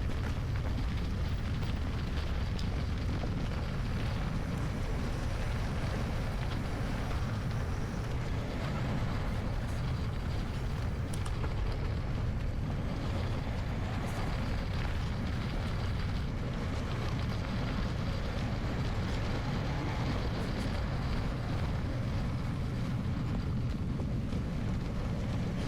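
Steady wind rush on the microphone over the low rumble of mountain bike tyres rolling along a forest road.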